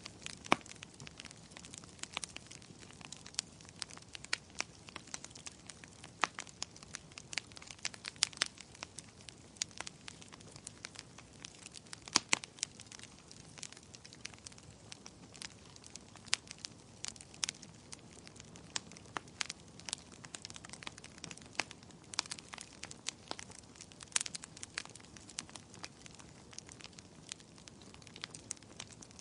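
Fire in a fireplace crackling, with many sharp pops at irregular intervals over a faint steady hiss.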